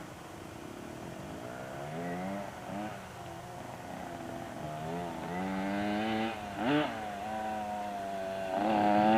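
Small motorcycle engine revving up and down over and over as it is ridden, its pitch rising and dropping, growing louder toward the end as it comes closer.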